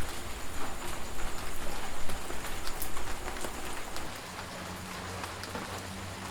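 Heavy rain falling steadily, with many separate drops ticking through the steady hiss. A low rumble underneath eases off about four seconds in, and the rain gets a little quieter.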